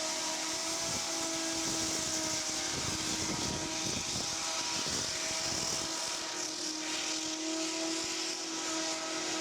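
A flying bike's propellers running steadily: a constant whine over a loud hissing rush, with extra low rumbling from about one to six seconds in.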